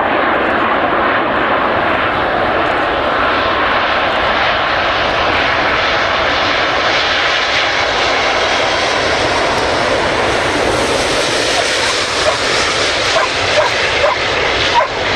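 Airbus A380 passing low on a low approach: steady jet noise from its four Rolls-Royce Trent 900 engines, growing brighter and hissier toward the middle. In the last few seconds a dog yips several times.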